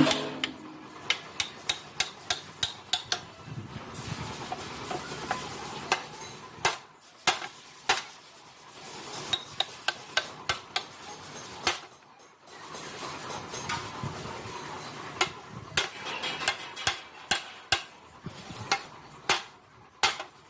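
Hand tools working on the metal parts of a turtle tiller's gearbox: runs of sharp metal clicks and taps, with stretches of scraping and rubbing between them.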